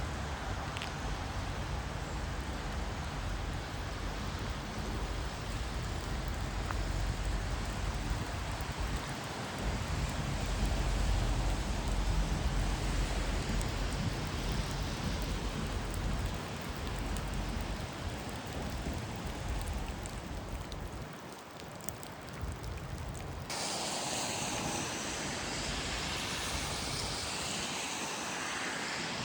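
Steady rain with wind rumbling on the microphone. About 23 seconds in, the sound changes abruptly to a brighter hiss of rain.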